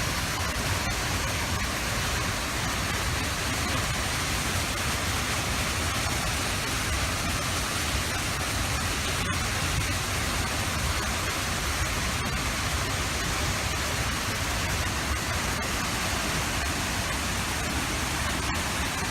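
Falls Creek Falls waterfall: a steady, unbroken rush of falling water.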